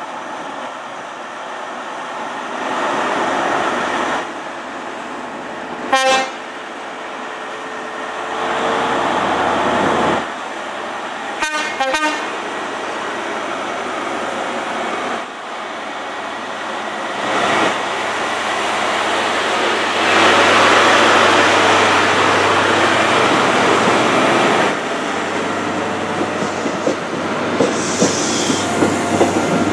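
A High Speed Train with Class 43 diesel power cars runs through the station. Its steady rumble swells and eases several times. There is a short sharp sound about six seconds in, two more near twelve seconds, and quick clicking of wheels over rail joints near the end.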